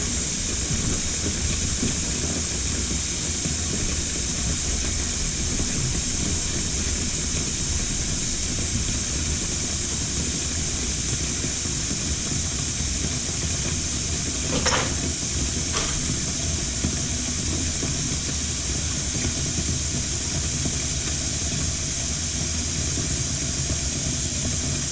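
Kitchen faucet running steadily into a double sink, filling both bowls to test the new disposal and dishwasher drain for leaks. Two short clinks come about halfway through.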